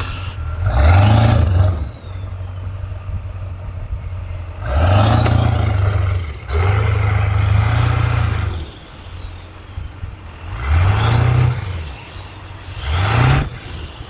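A vehicle's engine revved hard five times, each rev rising in pitch and falling back, with a steady idle between.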